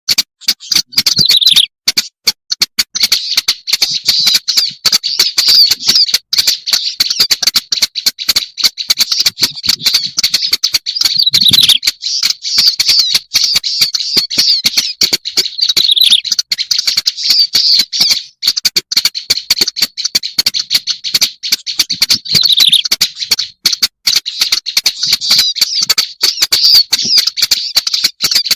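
Black-browed reed warbler song, a lure recording: a continuous fast, harsh chattering of rapid clicking notes, with a few downward-sliding notes scattered through it.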